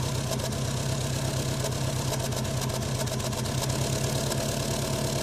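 Subaru engine idling roughly on a cold start, a steady fast pulsing run that holds an even level.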